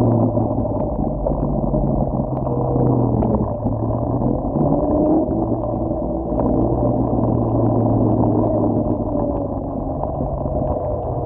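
Electric scooter running at a steady pace: a continuous low drone with a faint hum that dips briefly about four seconds in.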